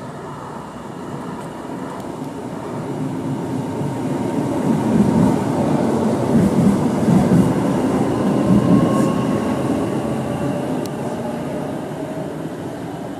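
A passenger train running past close by along the platform. The rumble of its wheels on the rails builds up, peaks about halfway through, then fades. A faint whine rises in pitch in the second half.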